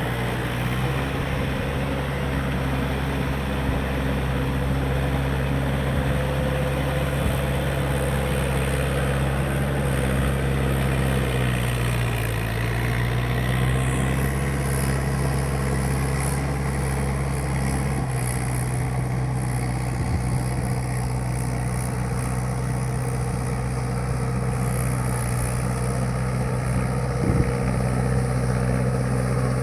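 Mahindra 585 tractor's diesel engine running steadily, with a constant low engine hum.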